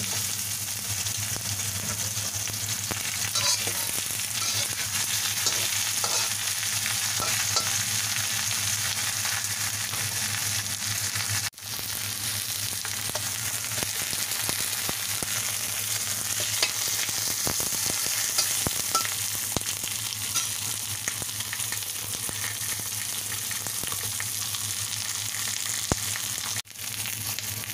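A whole chicken sizzling steadily in oil in a hot wok as it is briefly seared on both sides, with scattered small crackles. The sizzle cuts out for an instant twice.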